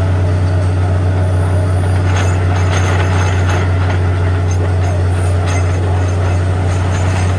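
Borewell drilling rig running steadily, an even, loud engine drone, with a few faint rattles about two to three and a half seconds in.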